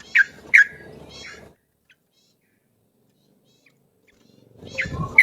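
Recorded yellow-vented bulbul (trucuk) call used as a trapping lure: a burst of quick calling with two sharp, loud notes in the first second and a half. This is followed by about three seconds of silence, then another burst of calling near the end.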